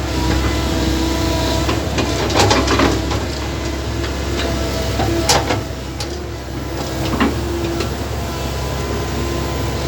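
An engine running steadily with a low hum and a held whine, with a few sharp knocks and clanks, the loudest about five seconds in.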